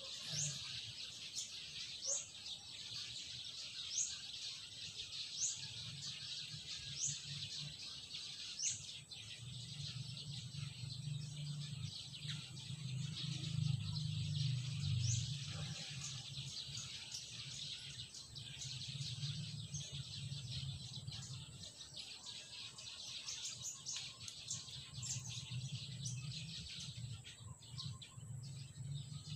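Garden ambience: a bird repeats a short rising chirp about every second and a half for the first nine seconds or so, with a few more chirps later. Underneath runs a steady high hiss.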